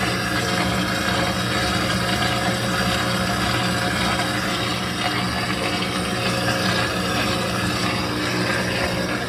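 Electrolux LT13B top-loading washing machine running steadily through a suspension test, most likely its spin: an even motor hum with water noise, no knocking from imbalance.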